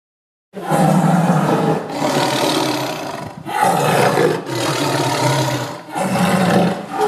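A big cat roaring: a run of loud, deep calls, each lasting about a second or more with short breaks between, starting about half a second in.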